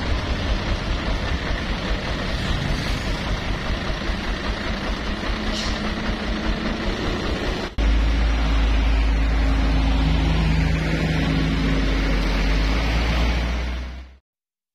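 Heavy truck engines and road traffic running, in two clips joined by a sudden cut about eight seconds in; the second has a heavier low rumble. The sound fades out near the end.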